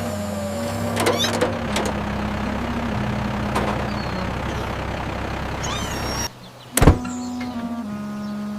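A motor vehicle engine running steadily, cutting out about six seconds in. A single sharp knock follows, then music.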